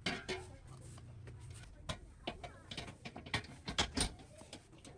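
Irregular clicks and light knocks, several a second, with two sharper knocks in quick succession near the end, over a low hum during the first second and a half.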